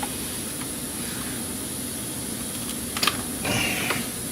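Steady mechanical drone of workshop background noise, with a few light clicks about three seconds in and a brief scraping sound just after, as a stuck coolant hose is twisted and pulled off a plastic thermostat housing.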